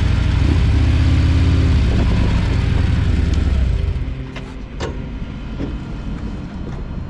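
Harley-Davidson V-twin motorcycle engine running steadily under way. It is loud for about four seconds, then drops to a quieter level with a few light clicks.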